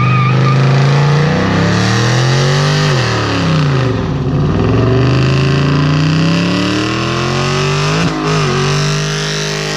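Dodge Challenger doing a burnout: the engine revs up and down over a steady hiss of spinning tyres. The revs climb, fall away about three seconds in, climb again, and dip once more near the end.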